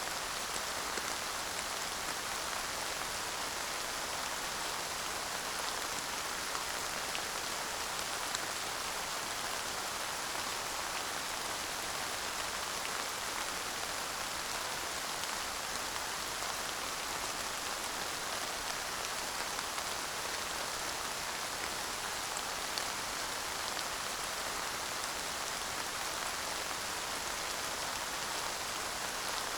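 Steady light rain falling, with a few faint separate drop ticks now and then.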